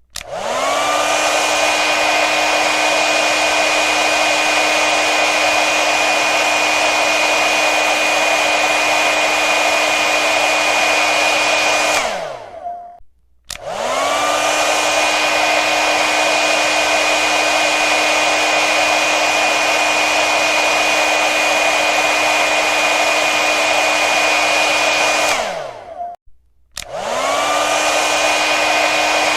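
Hair dryer blowing with a steady rush of air and a motor whine. Twice it is switched off and back on: the whine falls as the motor winds down, there is a short gap, and then the whine rises as it spins back up to full speed.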